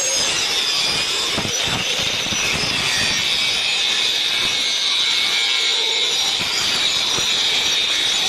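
Steady high-pitched metallic screech over a dense hiss, from a hand saw blade being worked in metal.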